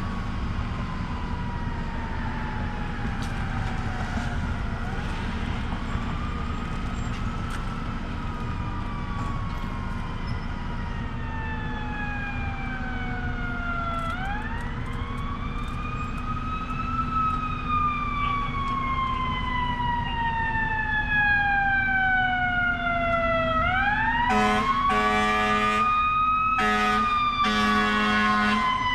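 Emergency vehicle siren in a slow wail, rising over a few seconds and then falling slowly, three times, getting louder as it comes closer. A lower horn sounds in short repeated blasts over the last few seconds.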